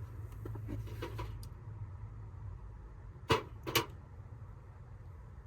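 Two sharp knocks about half a second apart, a little past the middle, with a few faint clicks earlier, over a low steady hum.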